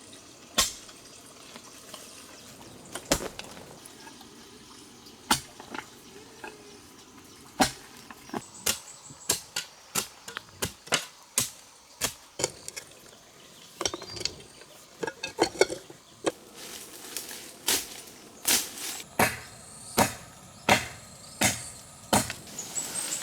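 A series of sharp knocks, a few seconds apart at first, then coming about twice a second from around eight seconds in.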